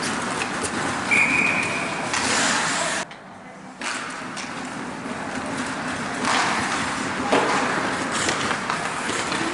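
Steady outdoor noise at a game, with a short, steady high tone about a second in. The sound drops away almost completely for under a second around the three-second mark, then the noise resumes.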